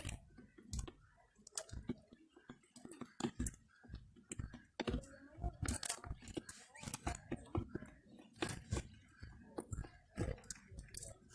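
Birds pecking at cracked corn (canjiquinha): irregular quick clicks and crunchy taps of beaks on the grain, several close together.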